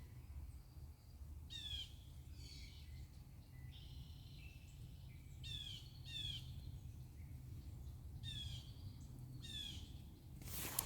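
Songbirds calling: about five short calls, each a quick run of falling high notes, with softer chirps between them, over a faint steady low rumble.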